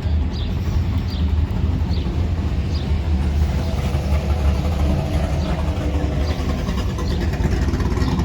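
A car engine running with a steady low rumble, its pitch rising a little from about five seconds in. Short high chirps repeat over it about twice a second.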